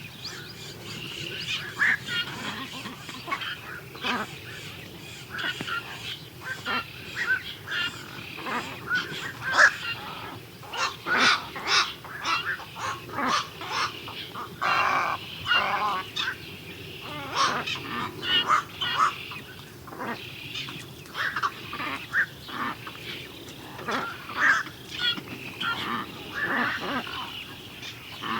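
Birds calling, many short calls overlapping one after another, with a longer call about halfway through.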